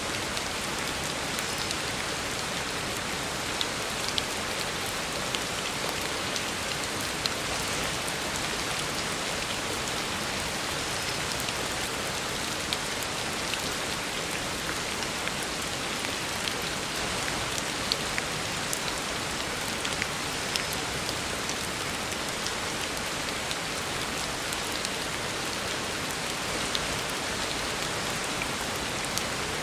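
Heavy rain falling steadily on a road, an even hiss with scattered sharper drop ticks.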